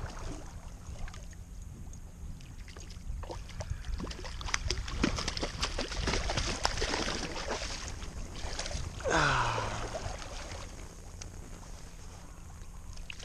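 Water splashing and sloshing with scattered clicks as a freshly caught brown trout is handled in the shallow river, with a short sound sliding down in pitch about nine seconds in.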